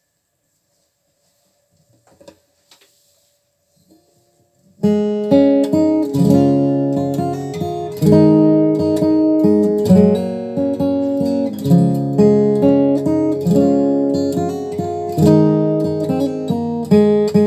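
Near silence with a few faint ticks, then about five seconds in a 2021 Gibson J-45 Standard acoustic guitar begins playing the song's instrumental introduction, with chords ringing and repeated strummed attacks.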